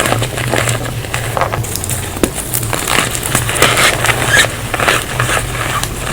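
Reformed gym chalk being squeezed and crushed close to the microphone: squeaky, crunching crackles in a dense string of small irregular scrapes and ticks, over a steady low hum.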